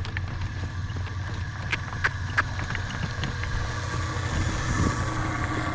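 Wind buffeting the microphone as a steady low rumble, with a few sharp clicks about two seconds in.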